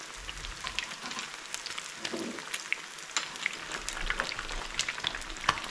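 Lager-battered whiting goujons shallow-frying in hot oil in a frying pan: a steady sizzle full of sharp crackles and pops, one louder pop near the end. The batter is being fried on to go crisp, with the fish already cooked through.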